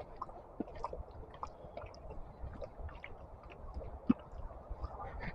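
Faint, irregular crackles and taps with a low rumble, typical of walking noise picked up by an action camera's internal mic through its waterproof case.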